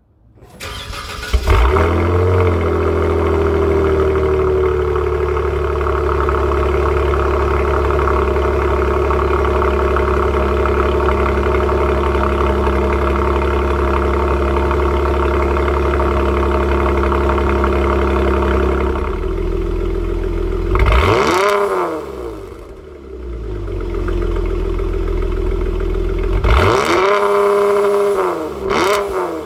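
Dodge Challenger V6 with a Borla Atak cat-back exhaust cold-starting about a second in, then running at a steady fast cold idle. Near the end the idle settles and the engine is revved twice: once quickly, then held up for a couple of seconds.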